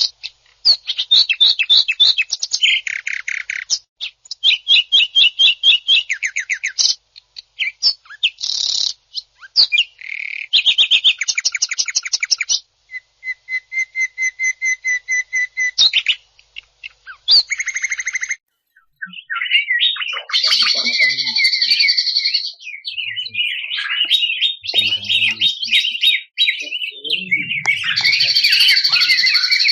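Cucak ijo (green leafbird) singing harsh, rapid-fire trills: fast runs of repeated notes that start and stop abruptly with short gaps between them. From about two-thirds of the way in, the song turns denser and more continuous.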